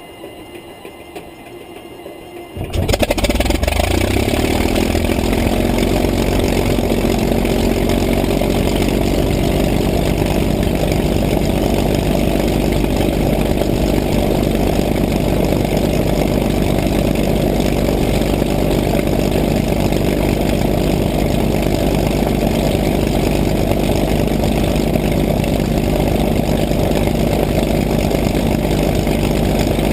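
P-51 Mustang's V-12 piston engine catching suddenly about three seconds in, then running steadily with an even low, rhythmic beat.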